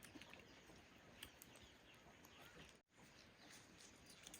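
Near silence: faint outdoor ambience with a few faint clicks and chirps. The sound cuts out completely for a moment just before three seconds in.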